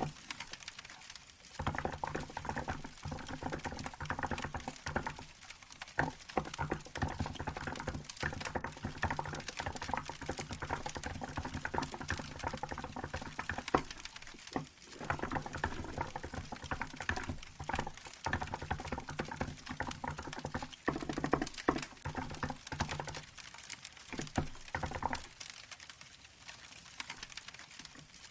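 Fast, continuous typing on a Hansung GK868B mechanical keyboard with milk keycaps: dense key clacks, pausing briefly about halfway through, then stopping a few seconds before the end, leaving a faint crackle.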